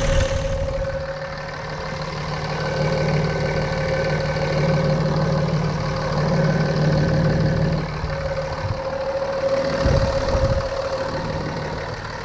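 5.9 L Cummins straight-six turbo-diesel idling, a low steady rumble with a steady whine over it.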